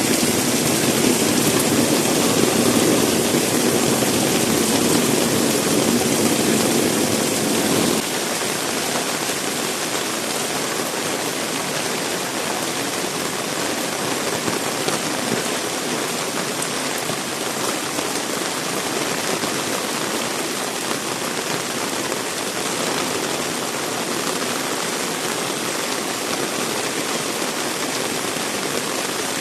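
Heavy rain pouring down in a steady hiss. For the first eight or so seconds a louder low rumble runs under the rain, then stops abruptly, leaving only the even rain noise.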